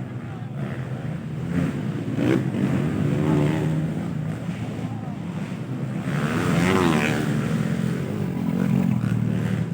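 Motocross dirt bikes racing, their engines revving up and down in pitch, with a louder rise and fall about six to seven seconds in.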